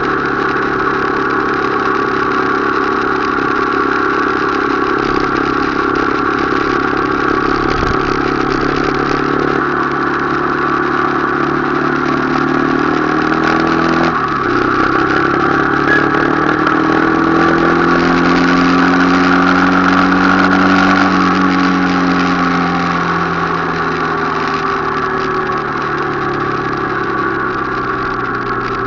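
Motorcycle engine running under way, its note climbing, dropping sharply about fourteen seconds in, then rising again and easing off.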